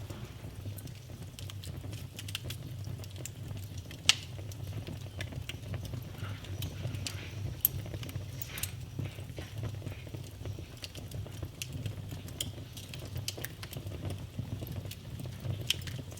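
Wood fire in a fireplace crackling steadily over a low rumble of flames, with irregular small pops and two sharper, louder pops about 4 and 7.5 seconds in.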